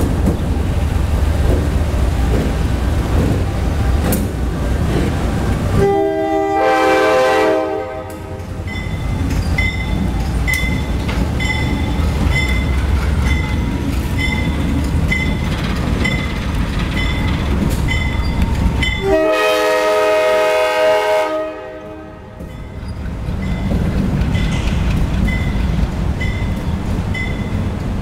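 CSX diesel locomotive running light with its engine rumbling, sounding two long blasts on its multi-note horn, the second about thirteen seconds after the first. A bell rings steadily and evenly from about a third of the way in.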